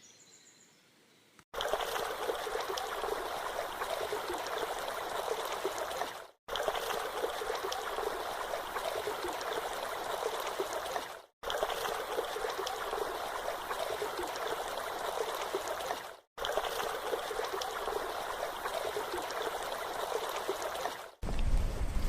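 Steady rushing and splashing of flowing water, starting about a second and a half in. It comes in five stretches of about five seconds each, each ending in a brief, sudden drop to silence.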